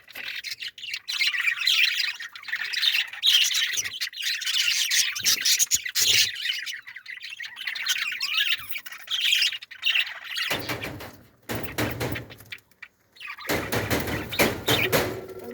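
Many small birds chirping and squawking together in a dense, busy chatter. Bouts of rustling and knocking come in the second half.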